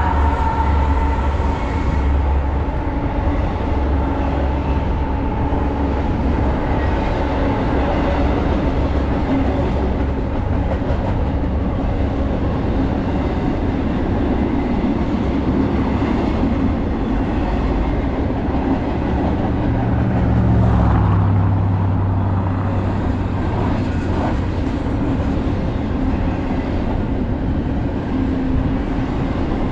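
Intermodal freight train rolling past, a steady rumble of railcars on the rails with some clickety-clack. A low diesel locomotive drone sits under it, strongest in the first seconds and fading out about two-thirds of the way through.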